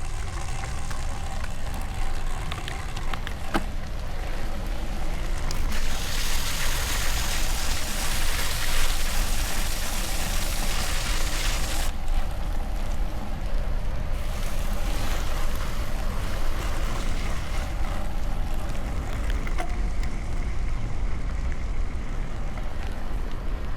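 Wind buffeting a camera microphone on a moving road bike, a steady low rumble, with a louder hiss of wet road spray rising for about six seconds in the middle and briefly again a little later.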